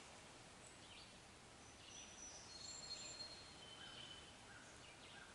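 Faint woodland birdsong: several birds singing thin, high whistled notes over a quiet background.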